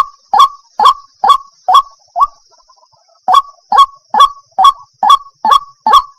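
White-breasted waterhen calling: loud, harsh, evenly repeated croaking notes about two a second. The calls break off for about a second, two seconds in, then resume at the same pace.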